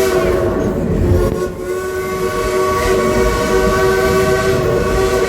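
Steam locomotive whistle blowing a long steady blast, breaking off briefly about a second and a half in and then sounding again, over the low rumble of the moving train.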